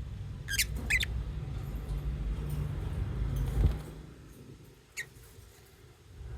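Lovebirds giving short, sharp high chirps: two close together near the start and one more about five seconds in, over a low rumble that fades out about four seconds in.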